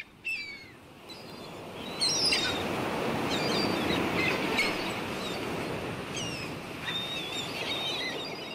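Seaside ambience: surf washing steadily, swelling about two seconds in, with many short high bird chirps above it.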